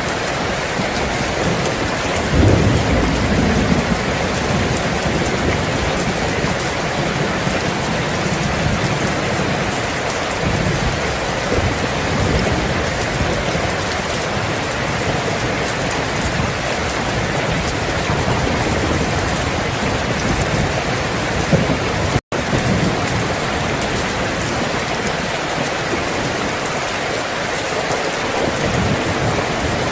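Steady heavy rain with low rumbles of thunder, the strongest about two and a half seconds in. A split-second dropout to silence cuts the rain about two-thirds of the way through.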